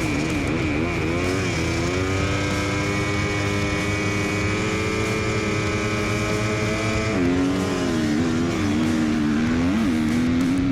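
Motocross bike engine revving up and holding high revs for several seconds, then dropping off and wavering, with a short throttle blip near the end.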